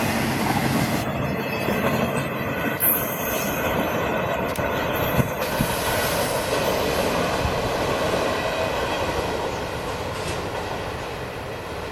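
Long intermodal freight train's flatcars, carrying highway trailers, rolling past: a steady noise of steel wheels on rail that eases slightly near the end.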